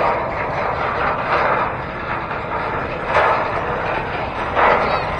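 Wind buffeting the microphone over steady road and traffic noise while riding a bicycle, swelling in gusts every second or two.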